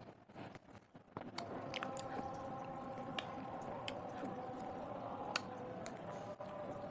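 Close-miked chewing and wet, squishy mouth sounds of food being eaten, with a few sharp clicks. A steady faint hum sits under it from about a second in.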